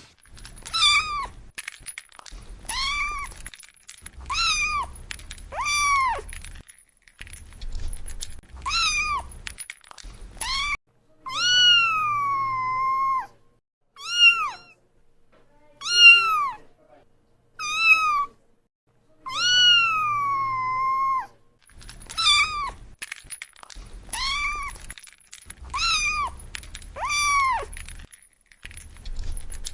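A kitten meowing over and over: short meows that rise and fall in pitch, about one every second or two. Two longer, drawn-out meows slide down in pitch, one near the middle and one about two thirds of the way through.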